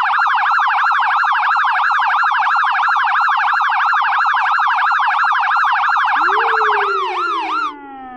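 US police car electronic siren. It sweeps quickly up and down about three times a second, with a much faster warble layered under it. About seven seconds in, the fast warble stops and the siren tones slide downward, while a lower tone rises and then slowly falls.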